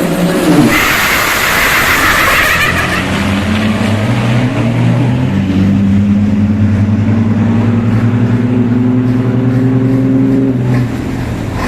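Racing truck's diesel engine pulling hard down a drag strip, its pitch climbing in steps through the gears, then dropping off near the end. A loud hiss sounds about a second in.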